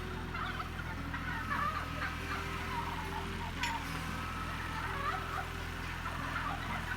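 A flock of heritage turkeys keeping up many short, overlapping calls over a steady low hum.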